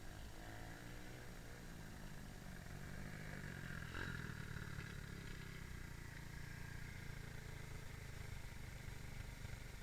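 Small dirt bike engine running, with its pitch shifting briefly near the start and a short click about four seconds in.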